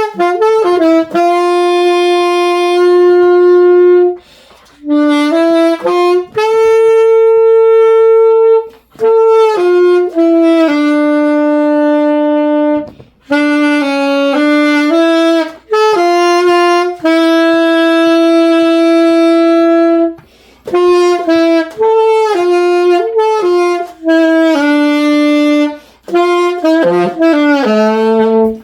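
A solo saxophone playing a slow melody of long, steady held notes, phrase by phrase with short breaks between, with no accompaniment.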